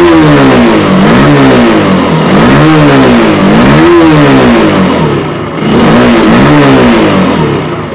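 Honda Supra GTR 150's single-cylinder 150 cc engine revved up and down several times with the throttle, each blip rising and falling back. It picks up readily, the sign that the newly fitted throttle position sensor is working and the engine no longer bogs at wide throttle.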